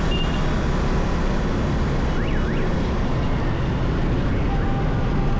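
Riding motorcycle: a steady rumble of wind on the microphone mixed with engine and road noise. About two seconds in comes a brief, faint high chirp that goes up and down.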